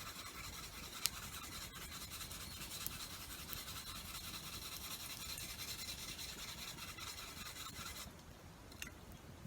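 Steady rubbing and rasping strokes of a tool being worked over by hand, with one sharp click about a second in; the rubbing stops about eight seconds in.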